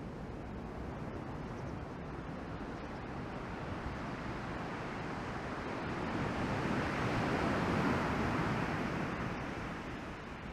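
Ocean surf from a typhoon swell: a steady wash of breaking waves that swells to a louder crash about two-thirds of the way through, then eases off.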